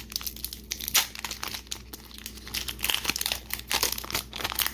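Foil booster-pack wrapper crinkling and tearing as it is opened by hand, with a run of irregular sharp crackles.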